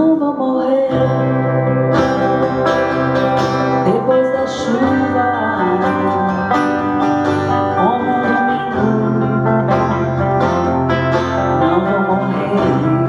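Live band music, a plucked guitar prominent over a steady bass line.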